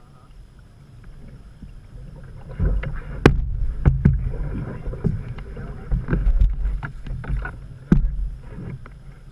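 Canoe paddling: paddle strokes and water against the hull with a low rumble, plus several sharp knocks, starting about two and a half seconds in.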